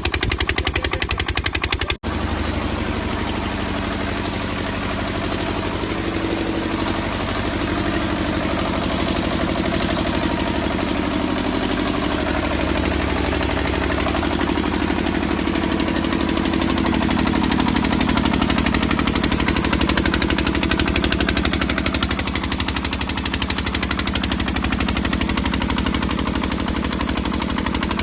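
12 HP water-cooled single-cylinder diesel engine running steadily, its rapid, even exhaust beats chugging without a break except for a momentary dropout about two seconds in.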